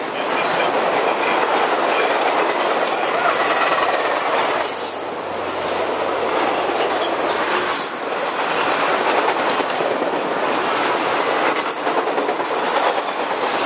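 Long Ringling Bros. circus train's cars rolling past at speed: a loud, steady rush of steel wheels on rail with clickety-clack over the rail joints. The sound briefly drops at about five and eight seconds in.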